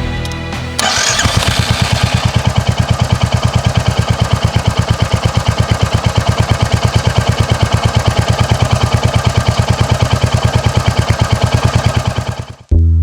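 Royal Enfield Hunter 350's single-cylinder engine starting about a second in, then idling with an even, steady thump of about eight beats a second. Music plays briefly at the start and comes back suddenly near the end.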